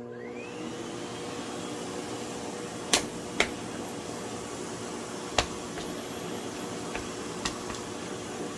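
Vacuum cleaner switched on, its motor whine rising as it spins up, then running steadily. Five or six sharp knocks come over it in the second half, the loudest about three seconds in.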